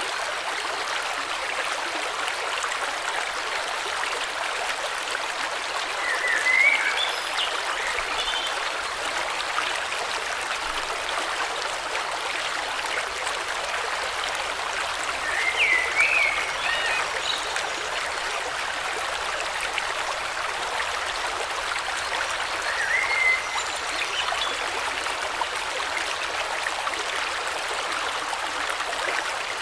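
River water flowing steadily, with short bird calls three times: about a quarter of the way in, near the middle, and again about three quarters in.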